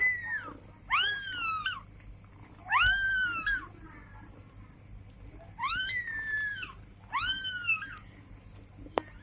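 Newborn kittens mewing: five separate thin, high-pitched cries, each rising then falling in pitch and under a second long, as they call for milk.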